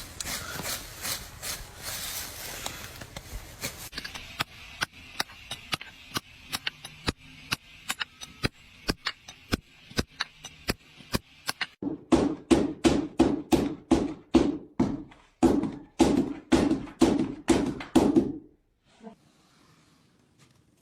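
A run of sharp, evenly spaced taps, about three a second. About twelve seconds in they give way to louder, duller knocks at the same pace, which stop suddenly near the end.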